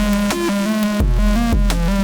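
Electronic music from analog synthesizers over a Roland TR-6S drum machine beat: punchy kick drums that drop in pitch, quick hi-hat ticks, a stepping synth bass line and a higher synth melody, in F# Spanish Gypsy scale.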